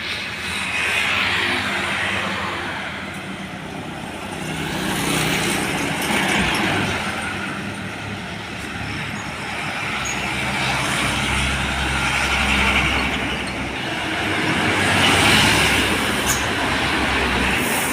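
Road traffic with trucks and other vehicles passing one after another: engine noise and tyre hiss swell and fade several times. A deep diesel engine rumble comes in about ten seconds in, and there are a few short clicks near the end.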